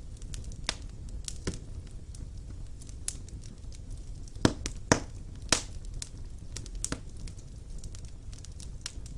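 Wood fire burning in a fireplace: a low steady rumble of flames with scattered crackles and sharp pops, the loudest three close together about halfway through.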